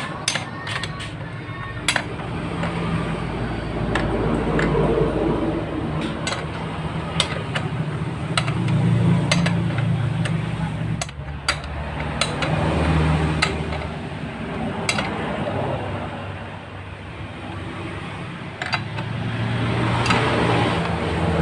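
Metal tools and motorcycle engine parts clinking and tapping at irregular moments during connecting-rod fitting work, over a continuous low hum.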